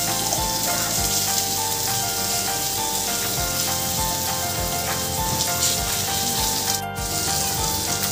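Maggi noodles in batter sizzling in butter in a hot pan, with soft background music over it.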